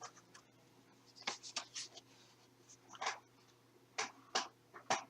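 Light rustles and clicks of a boxed toy truck's packaging being handled: a handful of short crisp sounds in small clusters.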